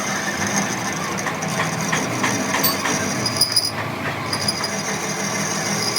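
An engine running steadily, with a few light knocks about two to three seconds in.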